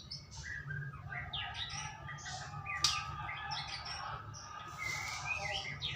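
White-rumped shama singing a rich, varied song of quick whistles, trills and chatter, with a sharp click about three seconds in and a low steady hum beneath.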